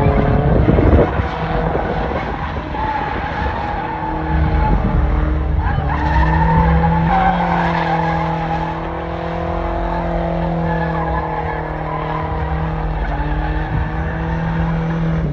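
Truck engine held at high revs through a burnout, its rear tyres spinning and squealing on the pavement.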